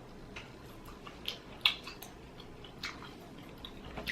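Faint wet chewing and lip-smacking from eating boiled crawfish, with a few short sharp smacks, the loudest about one and a half seconds in.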